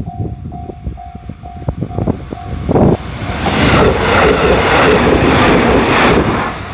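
Japanese level-crossing warning bell ringing in a steady, evenly repeated tone while train wheels clack over the rail joints. About three seconds in, the loud rushing noise of a train passing close by takes over and drowns the bell.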